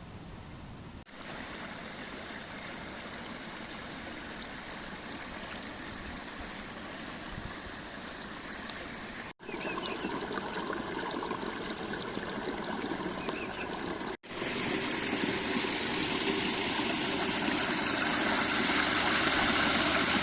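Stream water running and splashing over its bed in a steady rush, with three brief breaks, and louder after the last break near the end.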